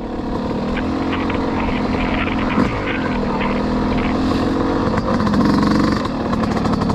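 Yamaha YZ250X two-stroke dirt bike engine under load on a slow climb, its note rising and falling with the throttle and revving higher about five seconds in, with light clicks and rattles over the top.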